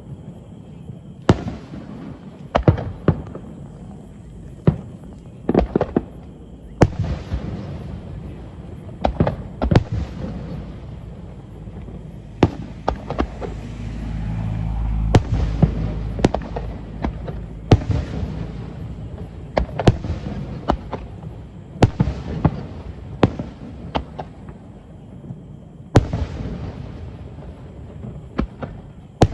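Aerial fireworks going off: a dense, irregular run of sharp bangs, some followed by a rolling rumble, with a swell of low rumbling near the middle.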